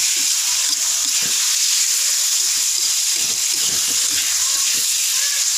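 Tofu cubes and chopped tomato, chili and garlic frying in oil in a wok, a steady sizzle, with a spatula scraping and stirring them around the pan in irregular strokes.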